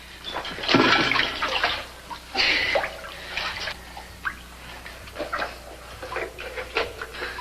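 Water splashing and sloshing in irregular bursts, loudest about a second in, with smaller splashes after.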